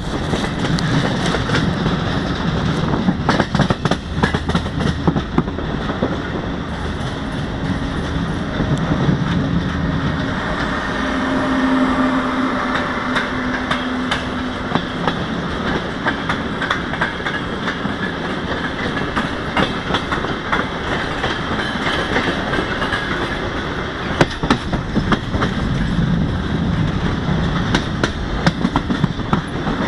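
Frecciarossa high-speed electric train pulling out of the station and passing close by, its wheels rumbling and clicking over the rail joints and points. A steady tone rises above the rumble for a few seconds around the middle.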